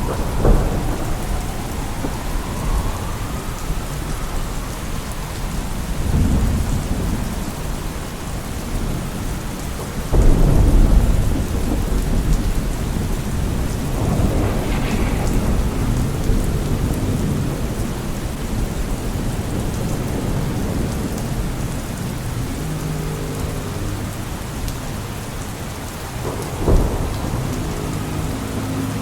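Steady rain with deep rumbles swelling about six and ten seconds in. A siren wails in the first few seconds, its pitch falling and rising.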